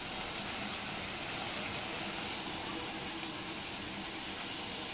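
Steady sizzling of the kijing sambal frying in a pan, an even hiss that holds without a break.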